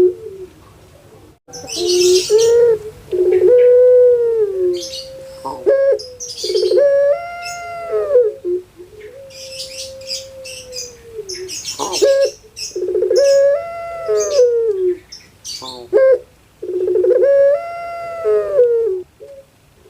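Puter pelung dove (ringneck dove) cooing over and over: arching coos that rise and fall, with one long drawn-out note held about ten seconds in. Small birds chirp between the coos.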